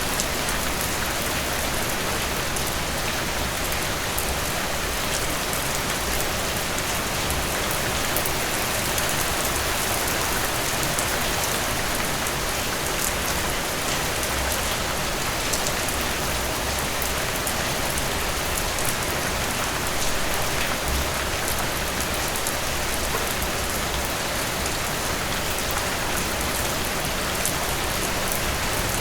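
Heavy rain falling steadily, an even hiss with the patter of drops striking a surface.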